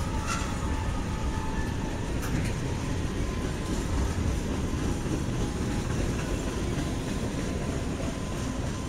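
Freight train cars rolling past: a steady rumble of steel wheels on the rails, with a couple of sharp clanks in the first few seconds.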